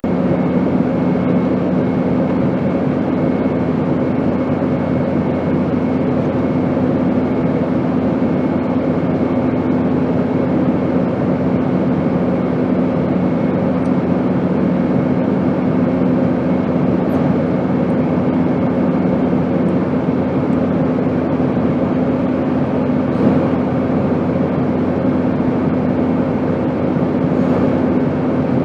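Steady drone of an airplane in flight: an even rushing noise under a low hum of a few constant tones.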